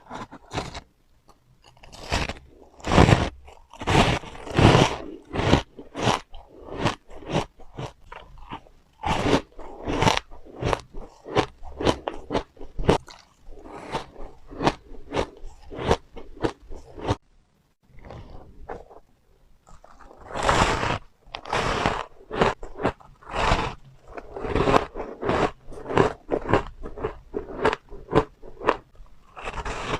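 Close-up chewing of refrozen powdery ice: a steady run of soft, crunchy bites and chews, about two a second, with a short pause a little past halfway.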